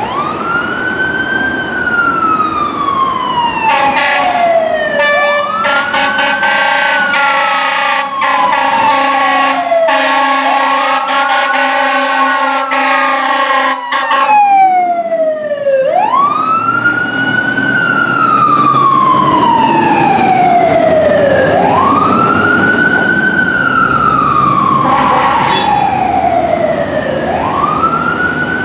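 1996 Seagrave fire engine's siren wailing, each cycle rising quickly and falling slowly, about every five seconds. Its horn blasts repeatedly over the siren for about ten seconds near the start, with one short blast near the end.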